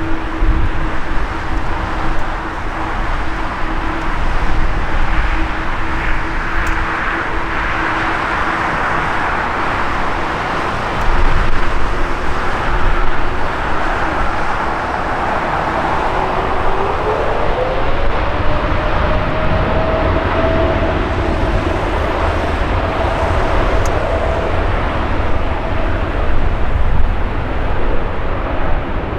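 Jet airliner engines running over heavy wind noise buffeting the microphone. Partway through, an engine hum rises steadily in pitch and holds at the higher note for several seconds.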